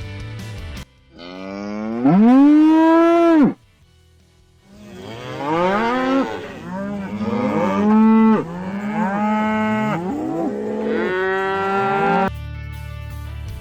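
Cows mooing: one long moo, then a string of several more moos, some overlapping.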